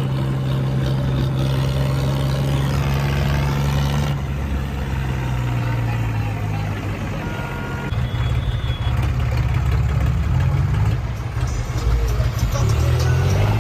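Tractor diesel engine running steady, dropping in pitch about four seconds in and running rougher and more unevenly in the last few seconds.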